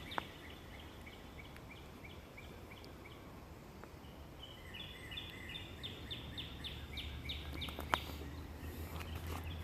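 A bird calling in quick series of short, evenly repeated chirps, one series fading out just after the start and another starting about halfway through. A low steady rumble comes in around the same time, with a single sharp click near the end.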